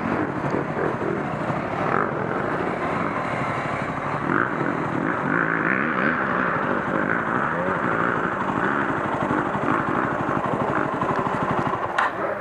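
Dirt-bike engine idling with a fast, even pulse, its revs rising and falling a little in the middle, and one sharp click near the end.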